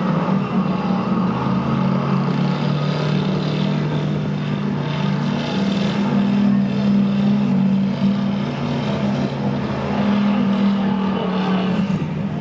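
Hot rod engine held at high revs through a burnout, its note staying nearly steady with small dips and rises as the rear tyres spin and smoke.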